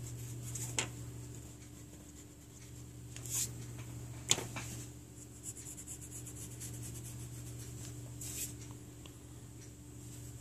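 Rubber eraser rubbing on paper, erasing pencil guidelines, with a few brief louder strokes and a sharp click about four seconds in. A low steady hum runs underneath.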